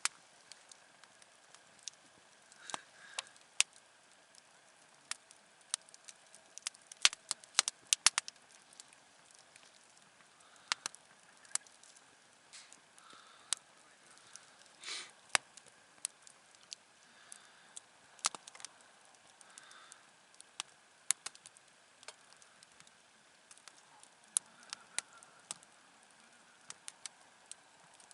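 Wood campfire crackling, with irregular sharp pops and snaps, a quick cluster of them about seven to eight seconds in.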